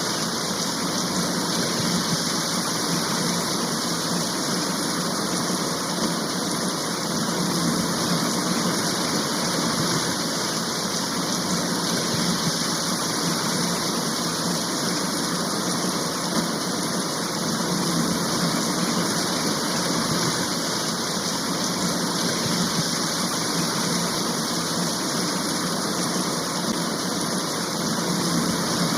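Heavy rain shower falling steadily, an even hiss with no breaks.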